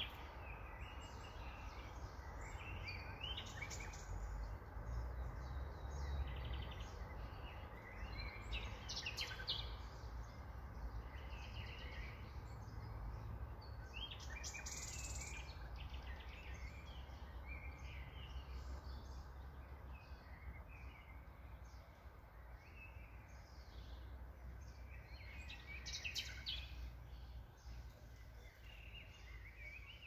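Birds chirping on and off over a steady low rumble of background noise.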